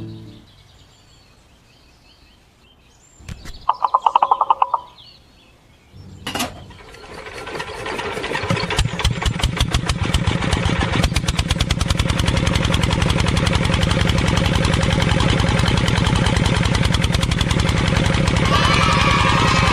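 A mini tractor's small engine starting after a brief loud buzzing burst, then settling into a steady rapid-firing run.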